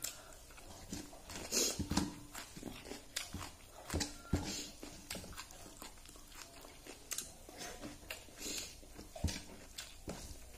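Close-up eating sounds of rice and fish curry eaten by hand: chewing and lip-smacking, with irregular short smacks and clicks.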